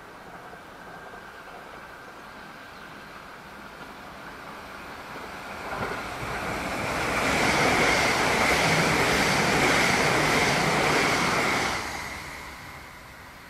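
E6-series Akita Shinkansen (Komachi) train passing at speed on the mini-shinkansen line: the rush of wheels on rail builds for several seconds, stays loud for about five seconds with a steady high tone over it, then drops off sharply as the train clears and fades away.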